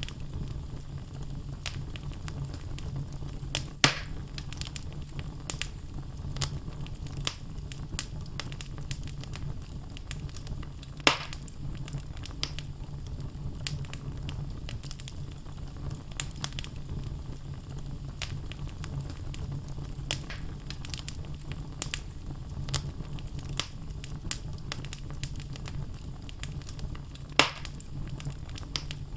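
Wood logs burning in a fireplace: a steady low rumble of flame with constant irregular crackling, and three louder pops at about 4, 11 and 27 seconds in.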